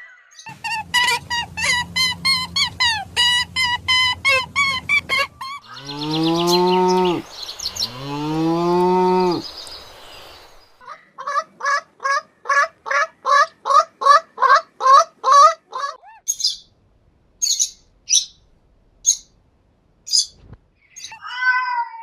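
A run of different animal calls one after another: about five seconds of rapid bird chirping over a low hum, then two long, falling moos from cattle, then another quick run of repeated calls, and last a few sharp, high bird chirps about a second apart.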